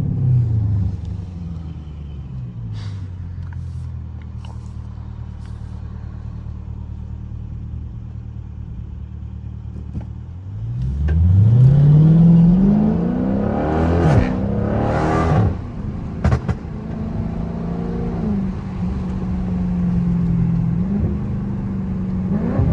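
Dodge Charger 392's 6.4-litre HEMI V8 idling, then about ten seconds in revving up hard as the car pulls away. As it lets off there is a burst of exhaust crackle and two sharp pops from its pop tune, before it settles into steady cruising.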